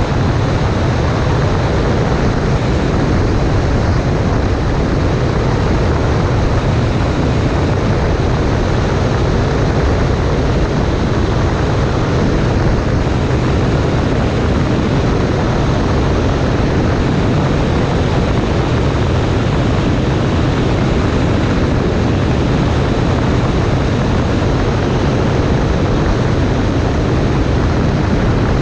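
Cessna 140A light aircraft in flight: steady engine and propeller drone mixed with rushing wind noise, holding an even, unchanging level throughout.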